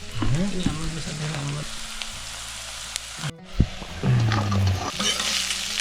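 Food sizzling as it fries in hot oil in a pan, with a voice or music-like tones over it; the sizzle breaks off briefly a little after three seconds in.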